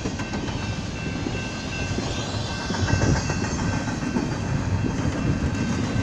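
Double-stack intermodal freight cars rolling past, a steady noise of steel wheels on rails with scattered clacks, growing louder about halfway through.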